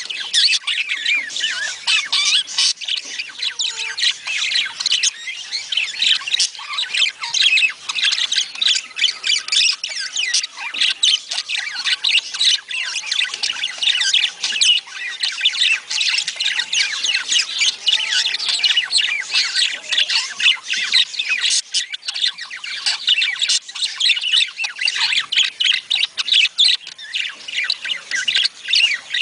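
Budgerigars chattering nonstop, with many short chirps, warbles and squawks overlapping in a busy, continuous din.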